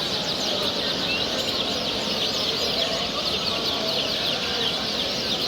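Dense chorus of many small caged birds chirping and trilling at once, a constant overlapping twitter over a steady background hum.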